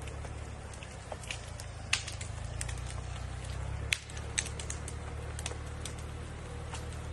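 Engine of a small Japanese tractor running steadily with a low drone that shifts slightly in level a couple of times, over scattered sharp clicks and cracks.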